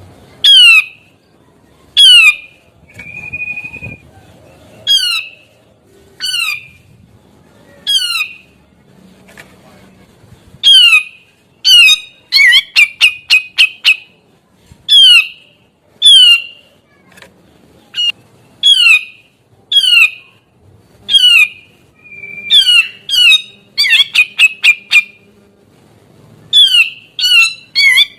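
Grey-cheeked bulbul (cucak jenggot) calling loudly. It repeats sharp, steeply falling notes about every one to two seconds, breaks twice into quick runs of short notes, and gives a brief level whistle now and then.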